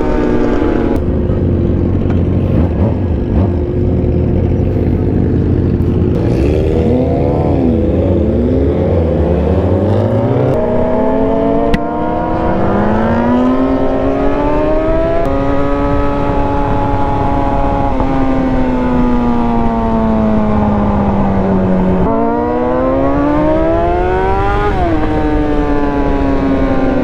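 Yamaha R6 inline-four sport-bike engine, running low and steady at first, then from about ten seconds in revving up with its pitch climbing, breaking at gear changes, easing down, and climbing again near the end before dropping off.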